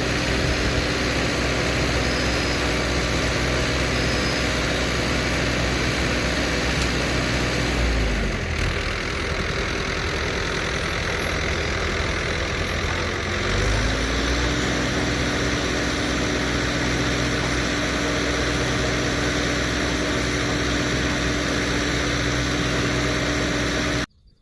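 Tractor engine running at steady throttle. The revs drop about eight seconds in and pick back up about six seconds later, then the sound cuts off suddenly near the end.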